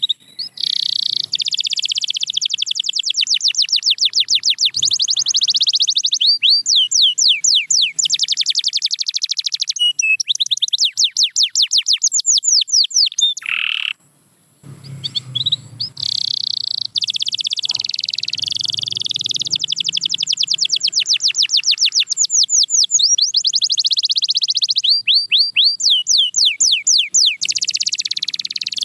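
Canary singing: a long song of rapid repeated notes and rolling trills, one tour running into the next, with a brief pause about halfway through.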